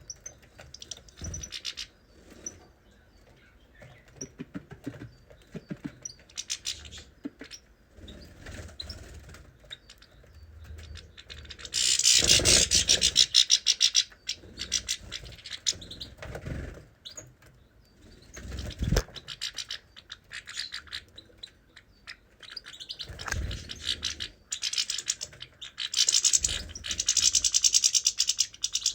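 Small cage birds chirping in fast, twittering runs, with a few soft thumps and wing flutters as they move about.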